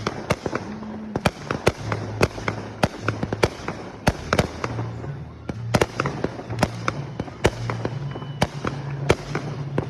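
Fireworks going off in a rapid, irregular string of sharp bangs, about two or three a second.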